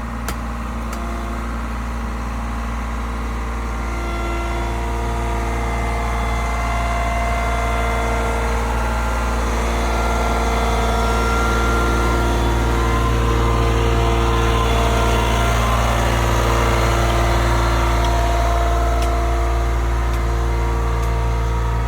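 Diesel engine of heavy paving equipment running steadily, growing louder over the first half as the machine comes closer, then holding.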